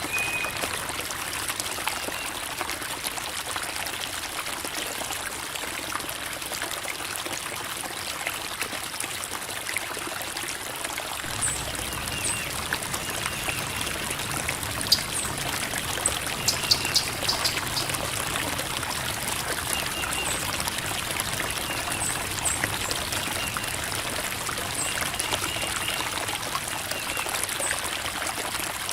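Creek water babbling and trickling over rocks, a steady rushing flow. A deeper rush joins about eleven seconds in, and a few brief sharp plinks stand out around the middle.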